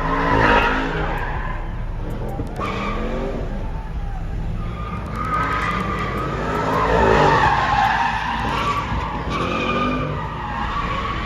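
A car's tyres squealing and skidding on pavement while its engine revs, as in a burnout or drift. The squeal swells loudest about half a second in and again around seven seconds.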